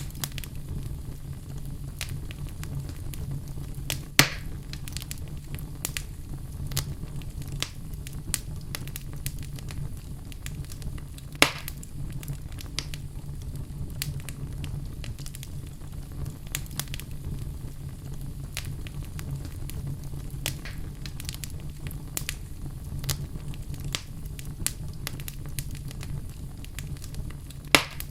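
Wood fire burning in a fireplace: a steady low rumble and hiss with frequent crackles, and three louder pops, about four seconds in, about eleven seconds in and near the end.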